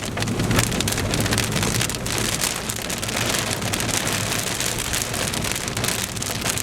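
Rain hitting a car's roof and windshield, heard from inside the cabin, with a steady low vehicle hum underneath.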